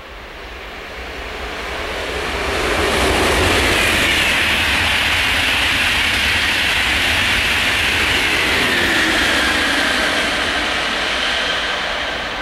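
Frecciarossa high-speed electric train passing at speed. Its rushing noise swells over the first few seconds, holds, then eases near the end, with a high whine that falls in pitch as the train goes by.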